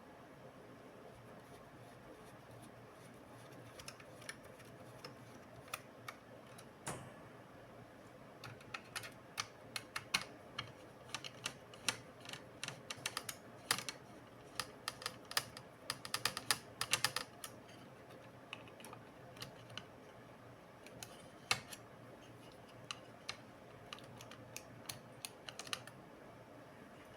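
Light, irregular clicks and taps from a laptop being handled, quick runs of them in the middle, sparser towards the end.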